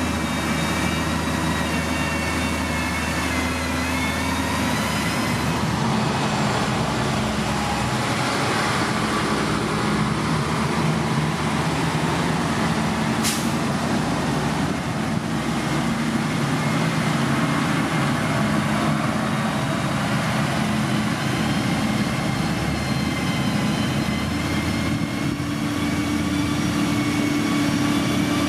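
Heavy diesel construction machinery working: a steady engine run with wavering high whines over it, and a single short, sharp click about halfway through.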